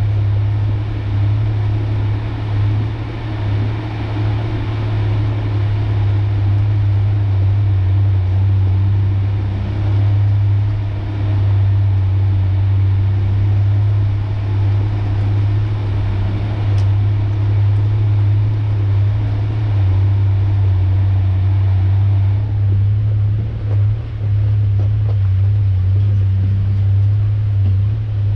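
A 1993 Ford Ranger pickup driving, heard from inside the cab as a steady low engine and road drone. The higher hiss over the drone drops away about two-thirds of the way through.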